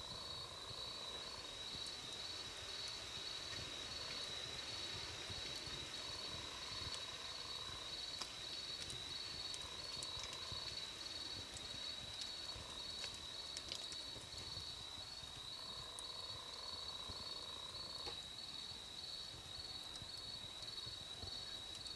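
Faint crackling of a wood campfire, with a sharp pop now and then, over steady high insect chirping that pulses evenly throughout and a lower trill that comes and goes every few seconds.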